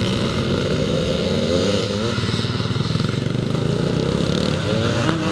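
Vintage twinshock motocross bikes racing on a dirt track, their engines revving up and down as they ride through the course, twice rising and falling sharply.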